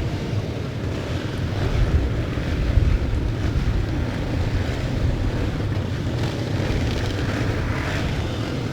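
Wind buffeting the microphone in a steady rumble, over the running of classic motocross bikes racing around the track.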